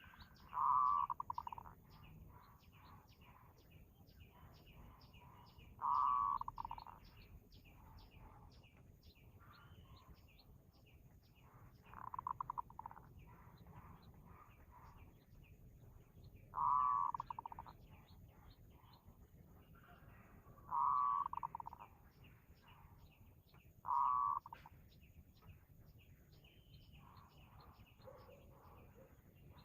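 A dove cooing, six short fluttering coo phrases a few seconds apart, over steady chirping of small birds.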